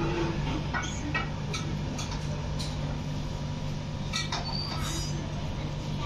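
Caged Java sparrows giving short, sharp chirps and clicks, with one brief thin high note near the end, over a steady low hum.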